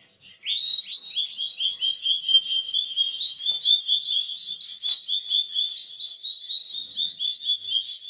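A bird calling in a rapid, even series of short high chirps, about four a second, starting about half a second in.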